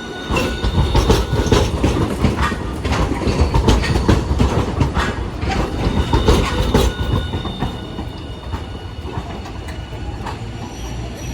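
Hiroshima Electric Railway streetcar rolling by, its wheels clattering over rail joints and points with a thin squeal. It is loudest for the first seven seconds, then eases to a steadier rumble.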